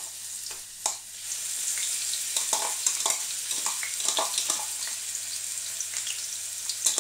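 Ground garlic, shallot and chili paste sizzling as it drops into hot oil in a wok, the sizzle growing louder about a second in. Short knocks and scrapes come from the slotted spatula against the chopper cup and the pan.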